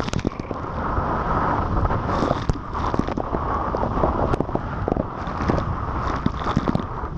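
Wind buffeting the microphone on a moving jet ski, over the running watercraft engine, with many short knocks and slaps throughout.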